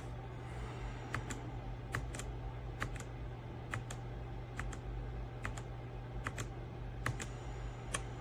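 Keys being pressed one at a time on a Redragon K556 mechanical keyboard with brown switches, about one click a second, sometimes two in quick succession. A steady low hum runs underneath.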